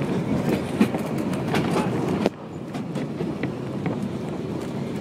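Chemin de fer du Vivarais train running, heard from on board: a steady rumble of the carriage with the clatter and clicks of wheels on the rails. The overall level drops suddenly a little over two seconds in.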